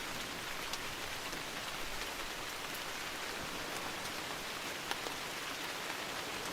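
Steady rainfall in a forest, with a few scattered drop ticks.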